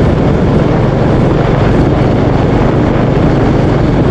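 Royal Enfield Classic 350's single-cylinder engine running at a steady cruise on the move, mixed with loud, even wind rush over the microphone.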